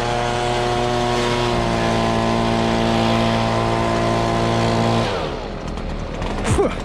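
Two-stroke gas leaf blower revved to full throttle and held there for about five seconds, blowing grass clippings off a mower deck, then dropping back toward idle as the throttle is released. A brief sharp sound comes near the end.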